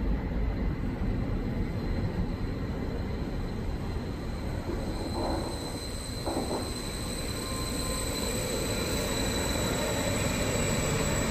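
Passenger train running into the station platform, with a steady low rumble and a thin, high wheel or brake squeal that grows stronger from about halfway through.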